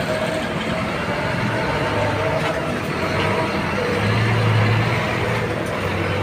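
Large bus engine running with a steady low drone over road noise, growing a little louder about four seconds in.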